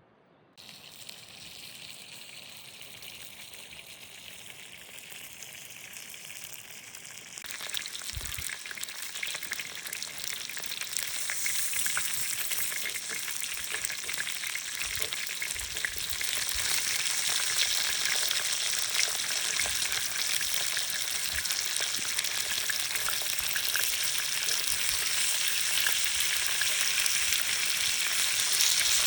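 Food sizzling and crackling in a frying pan. It starts about half a second in, jumps louder about seven seconds in, and grows steadily louder.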